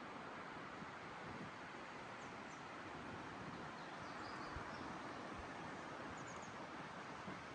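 Steady, faint outdoor rushing noise in a forest, with a few faint high bird chirps.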